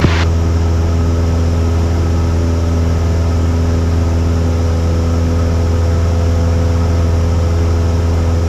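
Cessna 172's piston engine and propeller droning steadily in the cabin in level flight: a constant deep hum with no change in power.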